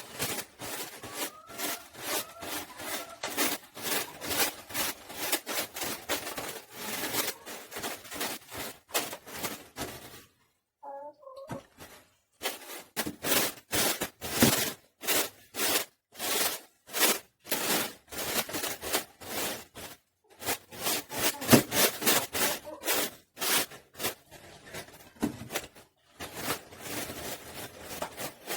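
Rough rubbing or scraping strokes repeated several times a second, in long bursts with a few short pauses.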